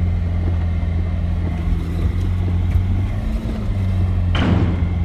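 Vehicle engine running steadily at low revs, rising slightly in pitch a little after three seconds in. About four and a half seconds in, a short loud rush of noise cuts across it.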